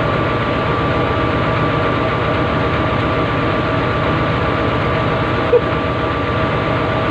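Excavator's diesel engine running steadily: a low, even drone with a steady high tone above it, and one short click late on.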